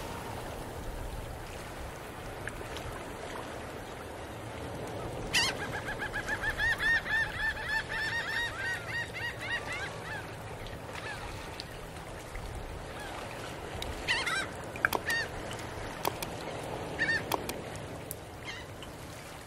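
A rapid series of short bird calls, about five a second, starting about five seconds in and lasting about four seconds, over a steady low background rumble; a few sharp clicks come later.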